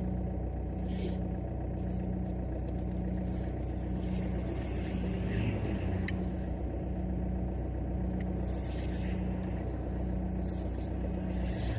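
Car engine and road noise heard from inside the cabin, a steady low hum, with a soft low pulse repeating about every 0.7 s and a single click about six seconds in.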